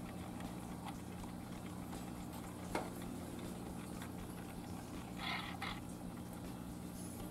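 Quiet room tone with a steady low hum, a single sharp click a little under three seconds in, and a brief soft double rustle just after five seconds.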